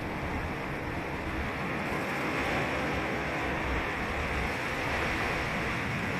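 Ocean surf washing onto a sandy beach, a steady rushing hiss that swells slightly about two seconds in.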